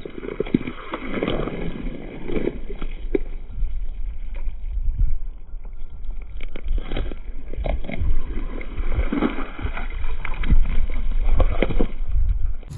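Muddy puddle water splashing and sloshing in irregular bursts as a toy finger dirtbike is pushed through it by hand, with wind rumbling on the microphone.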